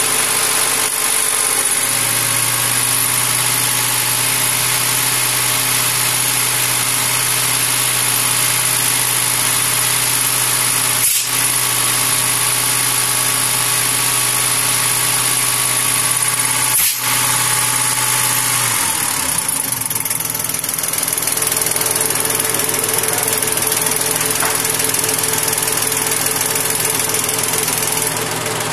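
Mahindra tractor diesel engine running steadily, its pitch shifting about two-thirds of the way through as the engine speed changes.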